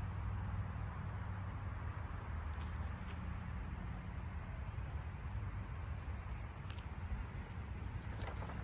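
Outdoor ambience: insects chirping faintly at a regular beat of about twice a second, high-pitched, over a steady hiss and a low traffic rumble that fades a few seconds in.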